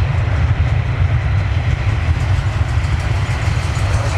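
Airbus A321 jet engines at takeoff thrust: a loud, steady, deep rumble with no breaks.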